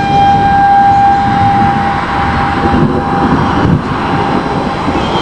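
Outdoor tornado warning siren sounding one steady wailing tone that fades away about two seconds in, over a loud low rumble.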